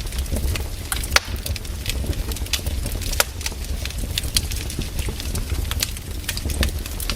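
Wood fire crackling: irregular sharp snaps and pops, a few louder ones, over a low steady rumble of the burning logs.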